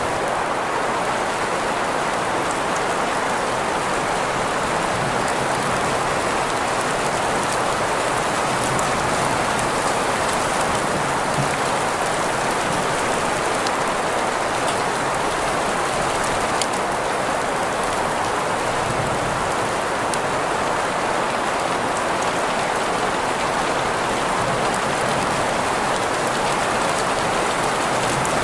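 Steady rain sound layered with green noise: an even, unbroken hiss strongest in the middle range, with faint drop ticks scattered through it.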